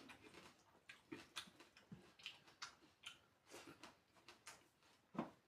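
Faint eating sounds: irregular soft clicks and smacks of a mouth chewing food, a few a second.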